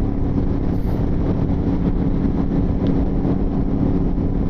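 Motorcycle engine running at a steady cruising speed, a constant hum over rumble, with wind noise on the rider's microphone.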